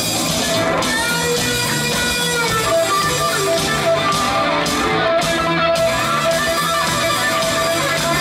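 Guitar solo: a melodic line of held notes with pitch bends, over a steady low accompaniment.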